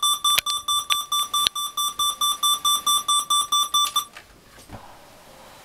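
Electronic alarm clock beeping rapidly, about five high beeps a second, with a few knocks over it, then cut off about four seconds in.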